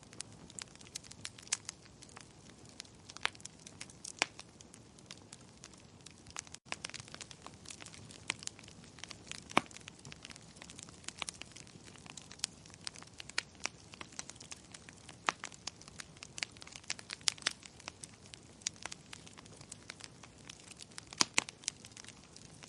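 Wood fire crackling in a fireplace: irregular sharp pops and snaps over a soft low hiss, with a momentary dropout about six and a half seconds in.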